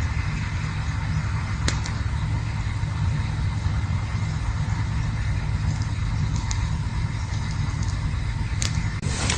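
Campfire burning with a steady low rumble and a few sharp crackles, one about two seconds in and another near the end.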